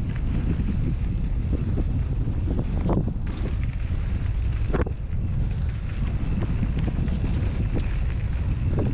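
Wind buffeting the microphone of a moving bicycle, over steady rumble from the ride, with two short sharp rattles from bumps about three and five seconds in.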